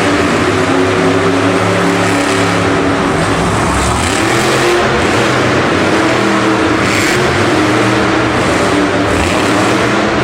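Monster truck's supercharged V8 running loud, its pitch rising and falling as the throttle is worked.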